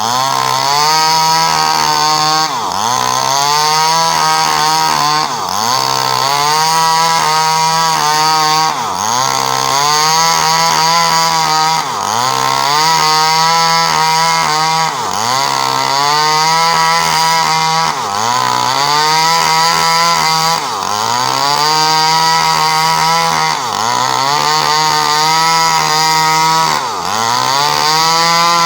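Small Stihl two-stroke chainsaw running at high revs while cutting coconut-palm timber, the engine note dipping sharply and climbing back about every three seconds.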